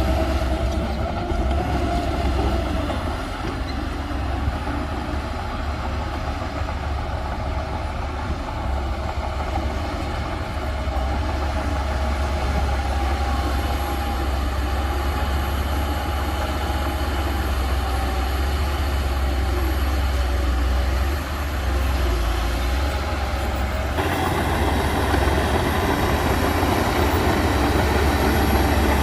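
Heavy diesel earthmoving machinery running under load, a steady deep engine rumble that gets fuller and a little louder about three-quarters of the way through.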